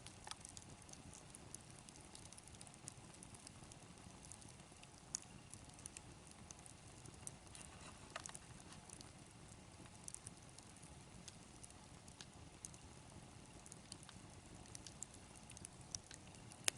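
Faint crackling of a campfire: scattered, irregular sharp pops and snaps over a low, steady hiss.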